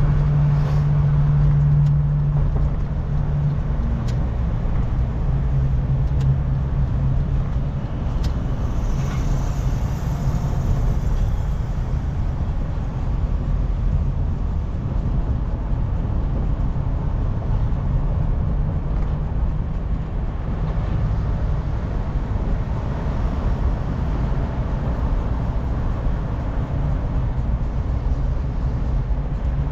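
A car driving, heard from inside the cabin: a steady low engine hum over road rumble. The hum is strongest in the first few seconds.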